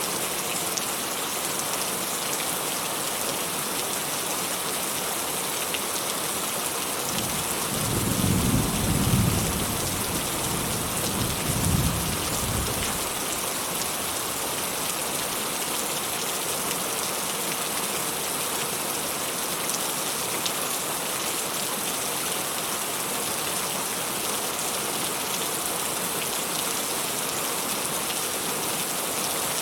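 Steady rain falling, an even hiss throughout. About a quarter of the way in, a roll of distant thunder rumbles for around six seconds, swelling twice before fading.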